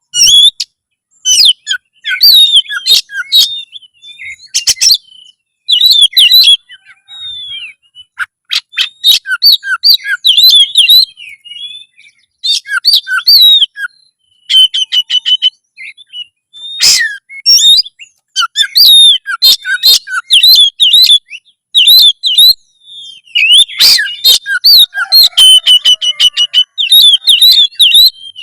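Oriental magpie-robin singing loudly in fighting form: rapid, varied phrases of sharp chirps, whistles and clicks, broken by short pauses, with a few held whistled notes.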